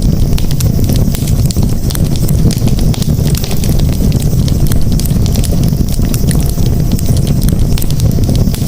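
Campfire crackling, with many small sharp pops over a steady low rumble.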